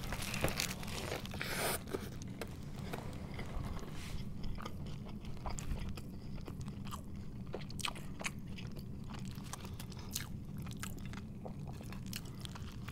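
A man takes a big bite of a bacon cheeseburger about a second or two in, then keeps chewing, with crunches and small wet mouth clicks.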